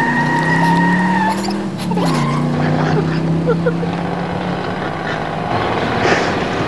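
A car's engine running with its tyres squealing, like a car speeding off. The high squeal stops after about a second, and the engine note drops and holds steady for a few seconds more.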